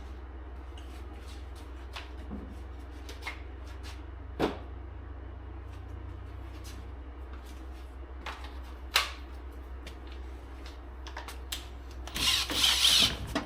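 A few scattered clinks and knocks of tools being handled, then near the end about a second of an impact gun hammering on a stubborn bolt.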